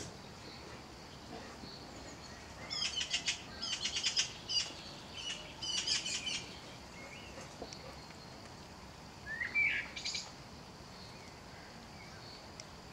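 A small songbird chirping and twittering in quick runs of high notes, several phrases close together, then a short rising chirp and a last brief trill near the end.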